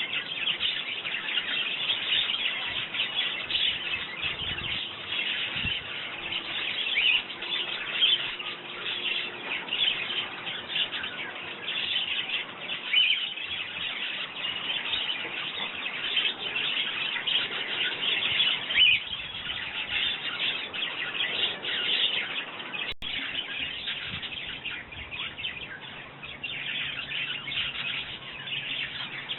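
Garden sparrows chirping continuously, many short overlapping chirps forming a steady chatter.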